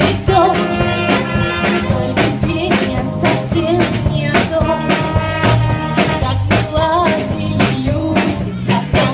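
Jazz orchestra playing an upbeat number, with a drum kit keeping a steady beat under a melody line.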